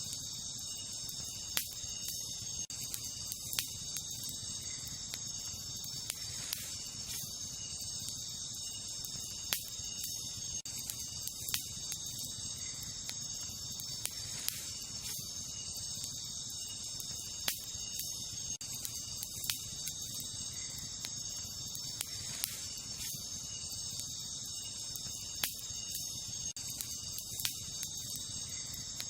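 Wood campfire crackling, with sharp pops every second or two, over a steady high chorus of night insects such as crickets.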